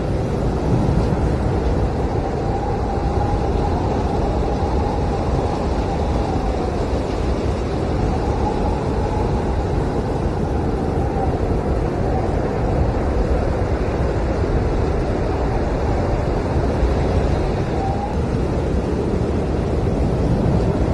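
Blizzard wind howling steadily: a constant low rumble with a faint whistle that rises and falls over it.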